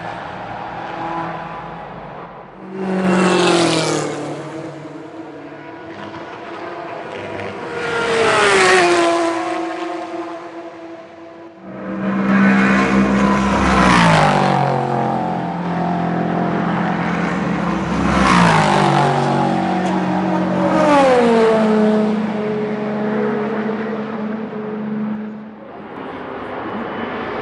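Several racing cars pass at speed, one after another. Each engine note swells and then drops in pitch as the car goes by.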